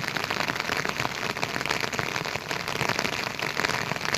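Heavy rain falling steadily, a dense patter of many close drops striking a surface.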